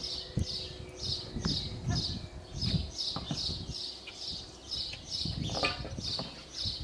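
A small bird chirping over and over, an even high chirp about three times a second, with low thuds and rumble underneath.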